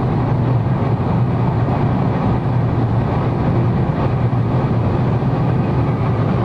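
A car at high speed on a racing oval, heard from inside the cabin: a steady, loud engine drone with a low hum, mixed with road and wind noise.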